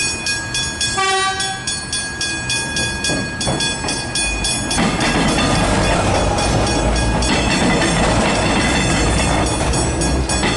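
A train horn gives one short blast about a second in. From about five seconds in, a train passes close with a loud, steady rumble of wheels and motors.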